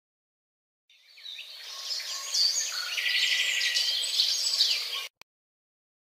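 Songbirds singing and chirping together, a dense mix of calls and a fast trill. The song swells in about a second in and cuts off abruptly near the end, followed by a short click.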